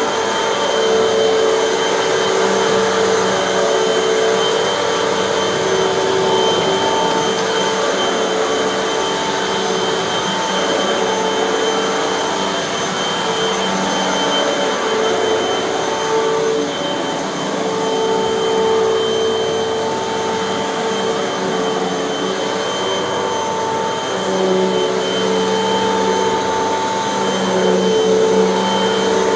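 Hoover bagless upright vacuum cleaner running steadily while vacuuming carpet, a constant motor whine that swells and eases a little as the machine is pushed back and forth.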